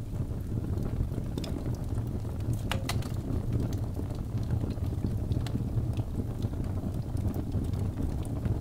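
Wood fire burning in a fireplace: a steady low rumble of the flames with scattered crackles and pops from the logs, one sharper pop a little under three seconds in.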